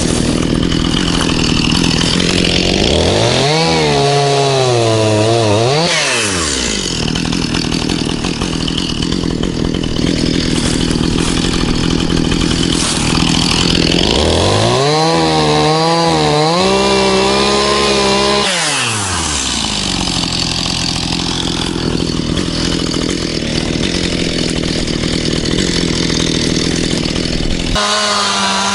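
Stihl MS 211 C two-stroke chainsaw running hard while cutting trees and brush. Its engine note climbs and drops back twice.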